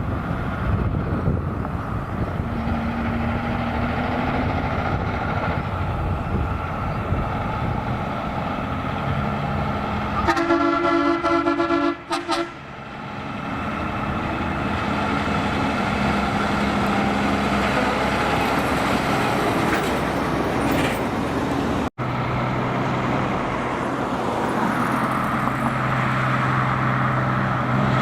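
Heavy trucks driving past with engine and road noise. About ten seconds in, a truck horn blows for about two seconds.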